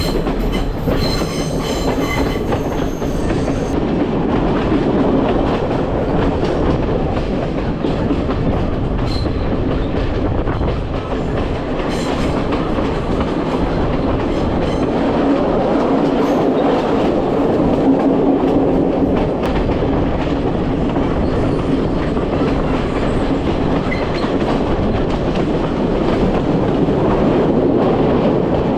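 Passenger train running along the track: a steady rumble with wheels clicking over the rail joints.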